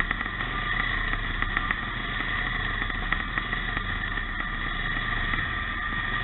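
Engines of vintage pre-1965 motocross motorcycles running during a race, heard as a steady mixed drone with no single bike standing out.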